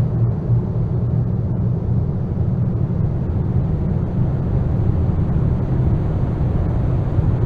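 Steady, loud low rumble with no distinct tones or beats: a dense noise drone from an experimental apocalyptic ambient track.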